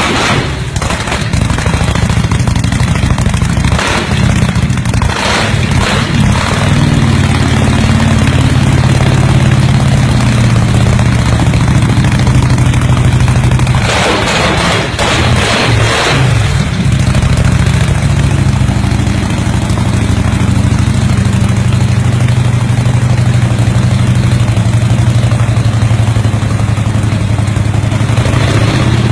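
Large motorcycle engine running loudly at a steady idle, with a few short, noisier surges a few seconds in and again about halfway through.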